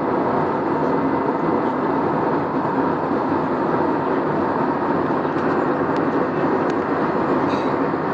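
Steady cabin noise of an airliner in flight: engine and airflow noise, even in level, with a faint steady tone running through it and a few light clicks near the end.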